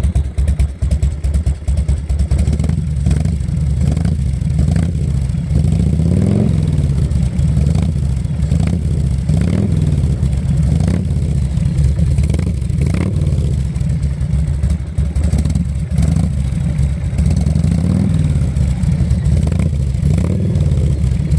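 Harley-Davidson Evolution V-twin on a 1995 Dyna, breathing through a 5-inch SuperTrap muffler, idling low in the loping three-beat rhythm. The engine note briefly rises a few times.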